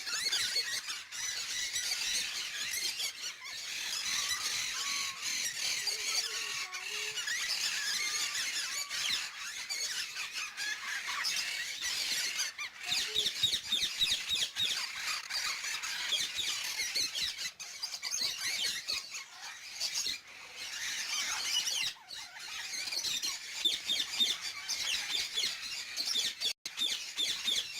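Many caged birds chattering together: a dense, unbroken run of high squeaks, chirps and squeals.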